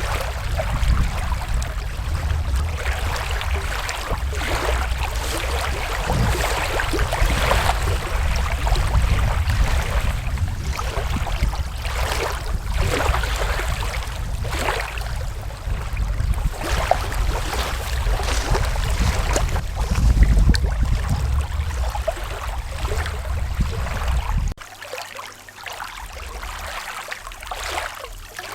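Wind buffeting the microphone over water lapping on a lakeshore. About 24 seconds in, the wind rumble cuts off abruptly, leaving quieter lapping water.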